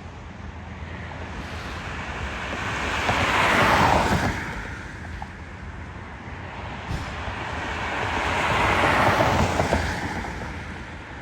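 Two fire apparatus (a fire engine and a ladder truck) driving past one after the other, with a rushing engine-and-tyre noise. The first swells to a peak about four seconds in and fades, then the second peaks around nine seconds in.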